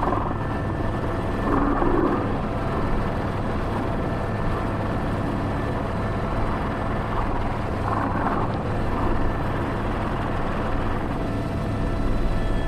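Airbus H125 (AS350 B3) helicopter's turbine and rotor running steadily: a constant drone with a few thin, steady whining tones over it.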